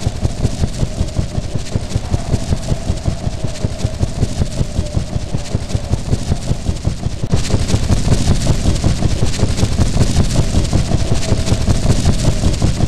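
Train running: a loud, dense rumble of rapid pulses with a faint steady tone over it, stepping up in loudness about seven seconds in.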